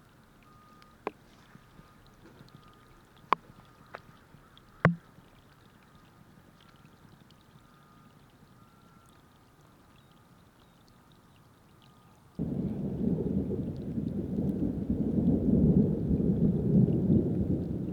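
Thunder: about twelve seconds in, a low rumble starts suddenly and keeps rolling, much louder than the faint background before it, which holds only a few light clicks.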